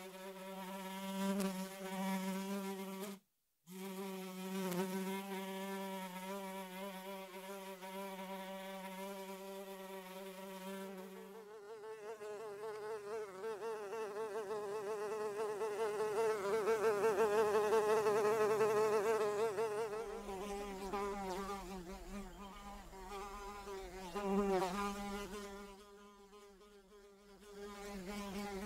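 Flies buzzing in flight, a wavering wing buzz that cuts out briefly about three seconds in. Near the middle the buzz shifts higher and grows louder for a few seconds, then the lower buzz comes back.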